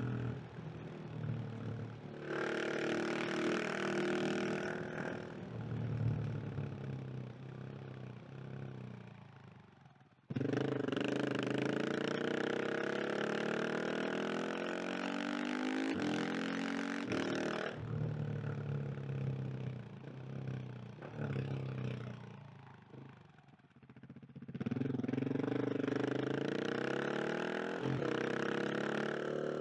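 KTM 690 SMC R single-cylinder engine accelerating hard in repeated pulls, its pitch rising through each gear. Twice the engine goes quiet off the throttle, then comes back loud and sudden on the gas, about ten seconds in and again near twenty-five seconds.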